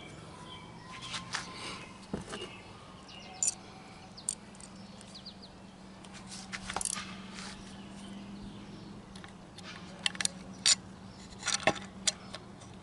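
Scattered light metallic clicks and taps of small engine parts and hand tools being handled while a stator wiring bracket is fitted, with a cluster of sharper clicks near the end, over a faint steady hum.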